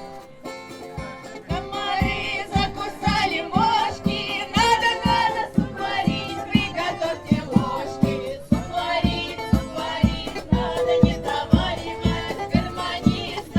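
Folk song with voices singing over a steady, regular beat that comes in about a second and a half in.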